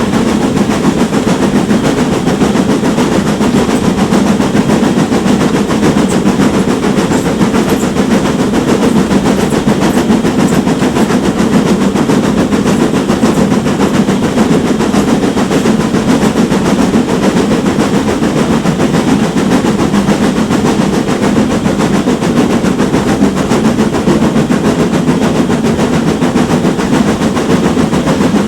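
Steam train hauled by a GWR Manor-class locomotive running steadily, a continuous loud rumble of the engine working and the train rolling on the rails, with no let-up.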